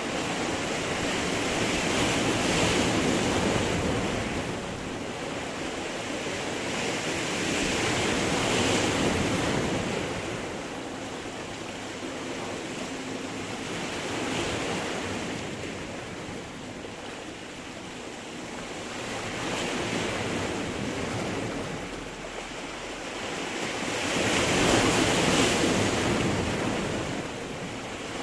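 Sea waves breaking and washing over stones, each swell surging in and ebbing about every five to six seconds, the loudest one near the end.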